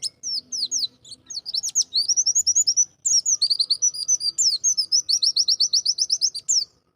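White-eye (pleci) singing a fast, high twittering song of quick down-slurred notes, with a short pause about three seconds in, then a rapid run of repeated notes that breaks off near the end.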